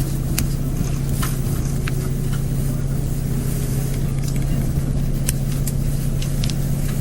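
Diesel express train running: a steady engine drone and low rumble, with scattered light clicks and rattles.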